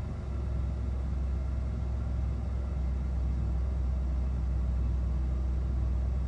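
Ford F-250 pickup engine idling steadily just after a cold start, still warming up; its low hum drops slightly in pitch right at the start, then holds even.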